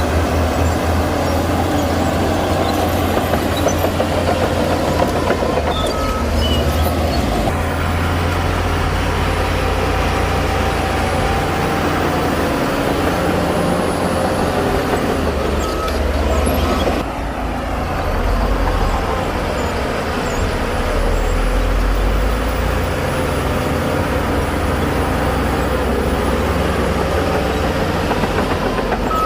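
Heavy diesel earthmoving machinery running steadily at a construction site, a bulldozer and dump trucks working stone fill, with a deep engine rumble. Short high beeps of a reversing alarm come through twice, about six seconds in and again around the middle.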